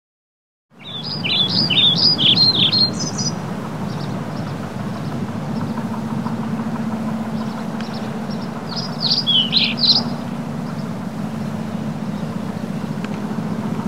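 Small birds chirping in two short bouts of quick falling notes, starting about a second in and again around nine seconds, over a steady low rumble of outdoor background noise.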